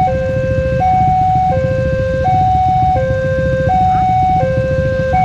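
Railway level-crossing warning alarm sounding its two-tone electronic signal, a higher and a lower tone alternating about every three quarters of a second, the sign that a train is approaching. A steady low rumble runs underneath.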